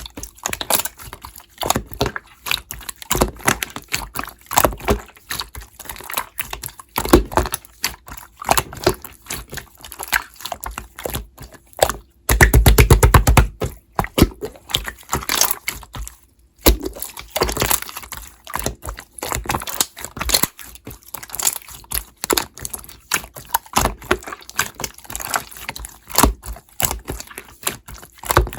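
Chewy (jondeugi) slime being squeezed, stretched and pressed by hand, giving irregular sticky clicks and air-bubble pops. A little past twelve seconds in comes a rapid, louder run of pops lasting about a second.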